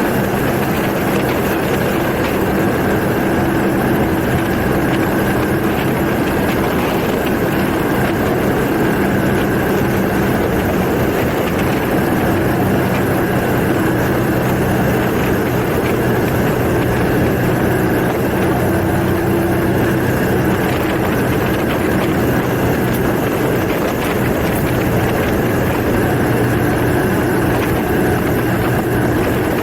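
Kawasaki Estrella's single-cylinder engine running at a steady pace while the motorcycle is ridden, with wind and road hiss over it.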